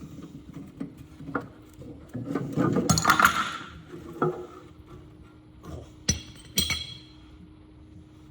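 Metal parts clinking and clattering as the oil pan is worked off an engine. A scraping rattle comes about three seconds in, then three sharp, ringing metallic clinks.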